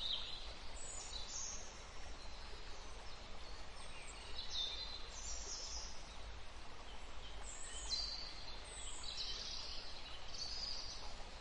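Birds calling in short, high-pitched phrases, some falling in pitch, repeating every second or two over a steady outdoor background hiss and a faint low hum.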